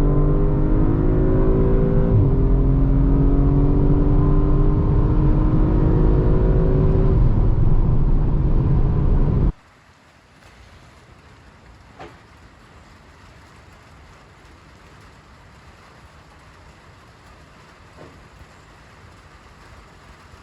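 Audi RS5 Sportback's 2.9-litre twin-turbo V6 accelerating hard, its note rising steadily with a gear change about two seconds in. The engine sound cuts off abruptly about nine and a half seconds in, leaving a faint steady hiss with two soft clicks.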